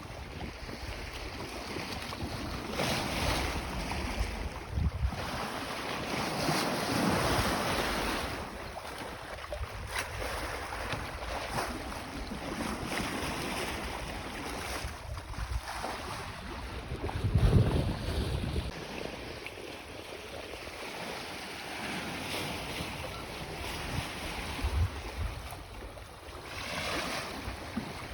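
Water rushing along the hull of a sailboat under way, with wind blowing across the microphone in swells and gusts; the strongest gust is about two-thirds of the way through.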